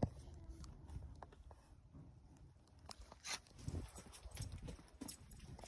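Faint scattered knocks and clicks over a low steady rumble.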